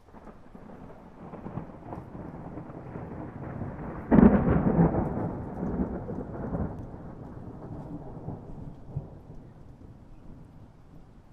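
Thunder rolling: a low rumble builds, then a sudden loud peal about four seconds in, which slowly rumbles away and fades out.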